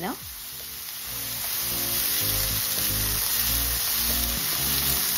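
Sliced vegetables sizzling in a hot oiled wok as they are stir-fried over a high gas flame, a steady hiss that grows louder about a second in. Background music with steady low notes plays over it.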